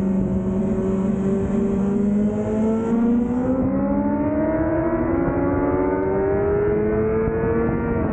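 2005 Yamaha YZF-R6's inline-four engine with an aftermarket Laser exhaust, running hard at track speed. Its pitch holds fairly level for the first few seconds, then climbs steadily as the bike accelerates through a gear.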